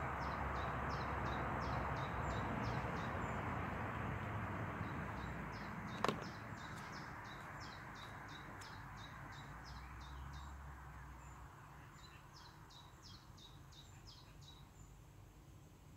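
A small bird chirping, a quick run of short high notes about three to four a second, in three bouts, over a soft rustle of breeze that dies away. A single sharp click about six seconds in.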